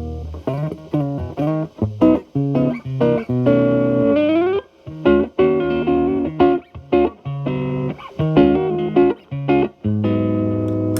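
Electric guitar (Telecaster) played through an MI Audio Crunch Box distortion pedal set at gain 9 into a Marshall Valvestate amp's clean channel. It plays short, clipped notes and stabs with gaps between them and a note bent upward about four seconds in, then lets a chord ring near the end.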